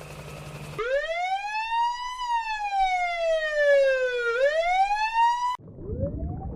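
Emergency-vehicle siren in wail mode: a tone that sweeps up, falls slowly and sweeps up again, then cuts off abruptly. A second, fainter siren begins rising over traffic noise right after. Before the first siren there is a low steady engine hum.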